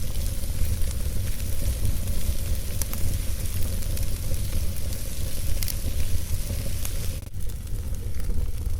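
Wood fire burning in a fireplace: a steady low rumble of flames with scattered small crackles and pops. About seven seconds in there is a brief dropout, after which it goes on slightly softer.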